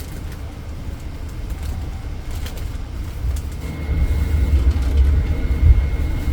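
Passenger train running with a heavy low rumble that grows louder about four seconds in, when a steady high-pitched whine joins it.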